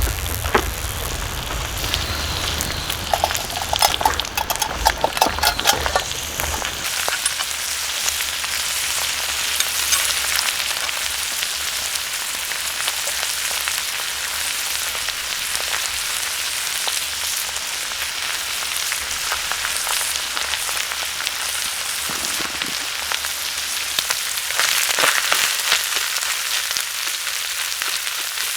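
Beef pepper rice frying on an iron griddle: clinks and scraping from a utensil in the first several seconds, then a steady sizzle that grows louder near the end.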